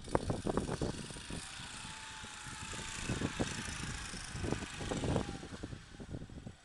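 Small engine running, with a faint tone that drops slightly in pitch and irregular clattering knocks throughout.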